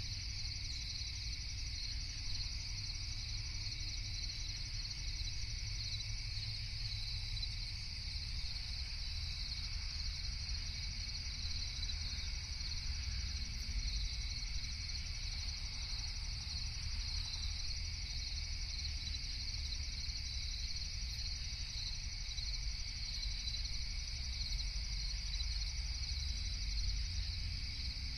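Night chorus of crickets and other insects chirping steadily, in a high band and a lower one, over a steady low rumble.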